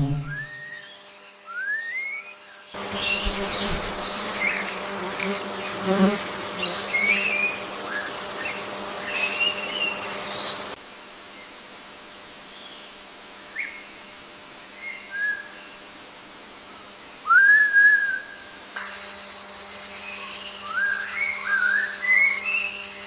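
Forest ambience: a steady insect hum and hiss, over which birds give short whistled chirps that glide up and down. The background changes abruptly about three times.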